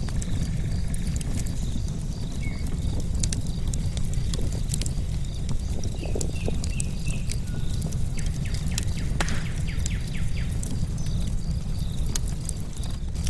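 Bonfire crackling, with irregular sharp pops from the burning logs over a low steady rumble. Crickets chirp steadily in the background, with a few short bird chirps.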